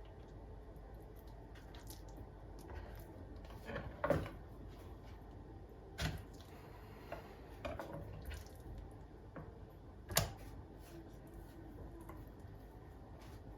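A few light knocks and clicks of things being handled, the sharpest about four and ten seconds in, over a low steady hum.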